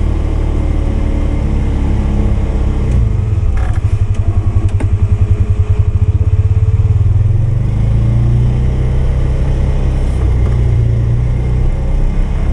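Polaris 570's single-cylinder engine running steadily while pushing snow with a plow blade. From about three seconds in the note pulses rapidly for a few seconds, then it settles back to an even run.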